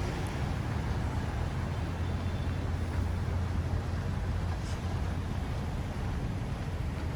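Downtown street ambience: a steady low rumble of traffic.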